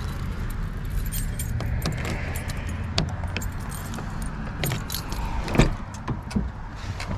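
Jingling and clicking like a bunch of keys being handled, with scattered knocks, the loudest about five and a half seconds in, over a low steady rumble.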